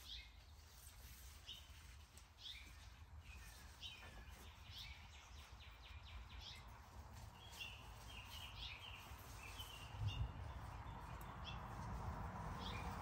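Faint songbirds chirping over and over in short, high notes. A low knock comes about ten seconds in, and a soft rustling noise rises toward the end.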